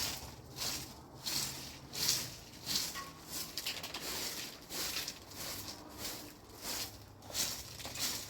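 Footsteps crunching through snow at a slow, steady pace, about one and a half steps a second.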